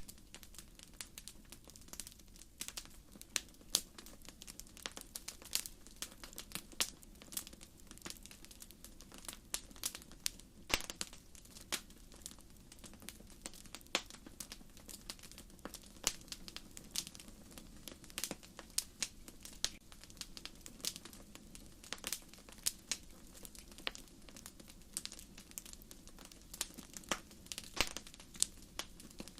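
Wood bonfire crackling: irregular sharp pops and snaps from the burning firewood, several a second, over a faint steady low rush of the flames.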